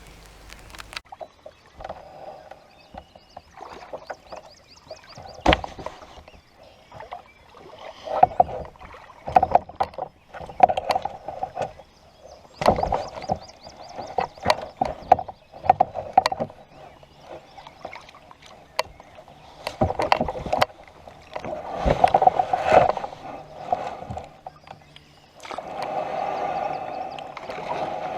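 Kayak paddling: irregular splashes of paddle strokes in the water every second or two, with a few sharp knocks.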